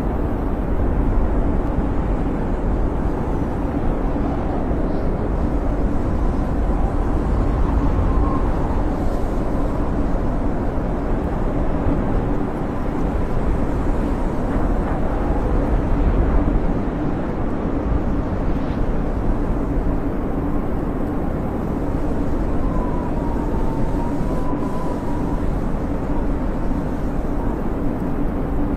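Snowstorm wind blowing steadily with a deep rushing, and faint whistling tones that waver up and down above it; one clearer whistle swells and fades near the end.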